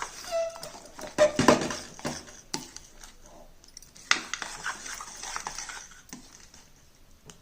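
A spoon scraping and knocking against a kadhai as a thick banana-and-jaggery barfi mixture is stirred, in uneven strokes that are loudest in the first two seconds.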